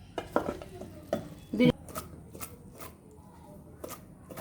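Soaked soya chunks being added to a pressure cooker: a series of short knocks and taps of a spoon against the cooker, the loudest about one and a half seconds in.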